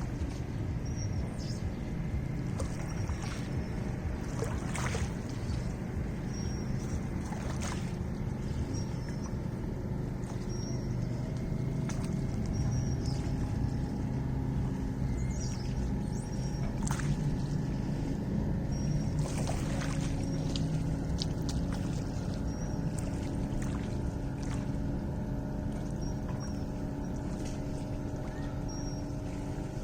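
Lake water lapping, with scattered small splashes and knocks over a low, steady rumble. A faint high chirp repeats every second or two.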